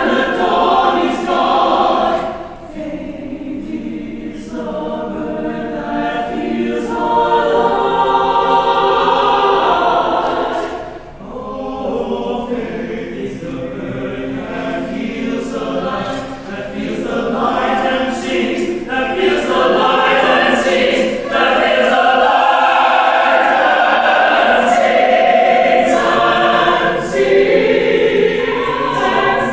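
Church choir singing a choral anthem in several voice parts, the sustained phrases swelling and easing, with short breaks between phrases about two and eleven seconds in.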